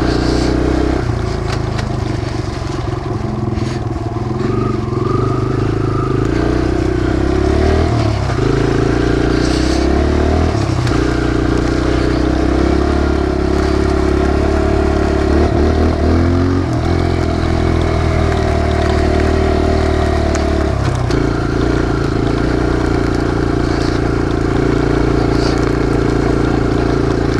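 Kawasaki KLX140 dirt bike's single-cylinder four-stroke engine running as the bike is ridden, its pitch stepping up and down several times as the throttle and gears change.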